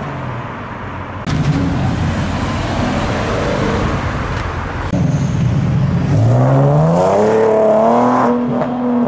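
A modified car's engine pulling away. Engine and exhaust noise jumps up about a second in, then the revs climb steeply about six seconds in and hold high.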